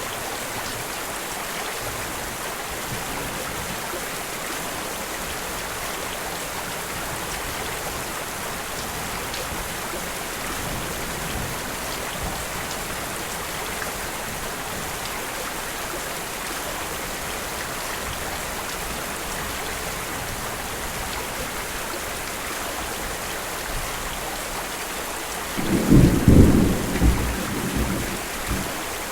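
Steady heavy rain, with a loud rumble of thunder near the end that lasts about three seconds.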